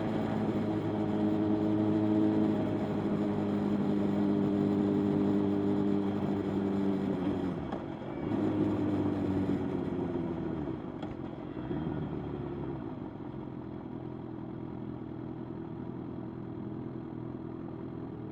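Motorcycle engine running at a steady pitch while riding, then easing off about eight seconds in, its pitch falling as the bike slows, and carrying on more quietly at a lower, steady speed.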